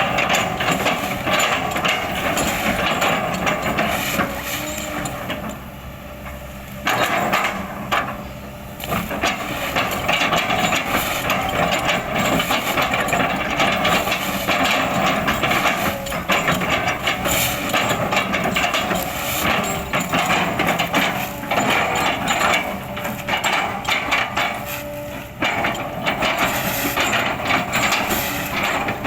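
Kobelco hydraulic excavator running under load while its bucket chops and crushes oil palm trunks into chips, with repeated woody cracks and knocks over the engine. The sound eases briefly twice, about five and eight seconds in.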